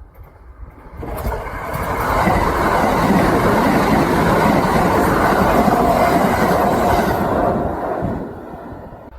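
Kintetsu electric train passing at speed, its wheels clattering over the rail joints. The sound comes on suddenly about a second in, holds loud for several seconds and fades away near the end.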